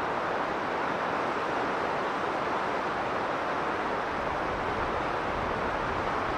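Strong blizzard wind blowing steadily, a dense unbroken rushing noise with no gusts standing out.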